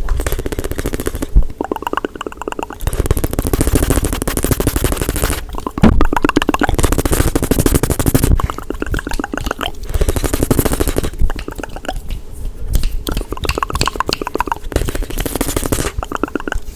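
Fast, close-miked ASMR hand and mouth sounds: rapid trains of tapping and clicking in bursts a second or two long, alternating with hissy rubbing and scratching.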